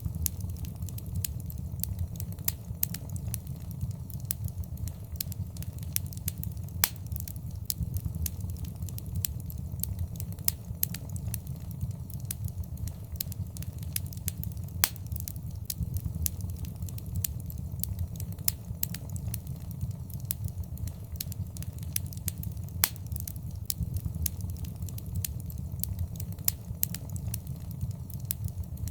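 Wood fire burning in a fireplace: a steady low rumble of flames with frequent crackles and occasional louder pops.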